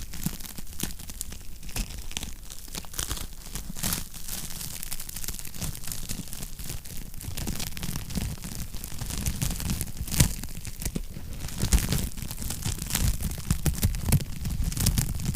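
Wood fire burning in a fireplace, crackling steadily with a few louder pops, over a low rumble.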